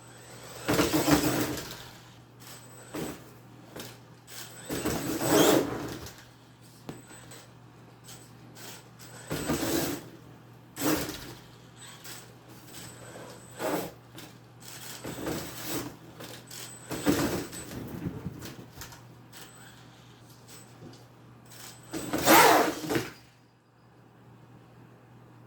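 Brushless electric RC monster truck running on cardboard: its motor whirs in short bursts of throttle, about eight times, each with tyre and chassis noise against the cardboard. The loudest burst comes near the end.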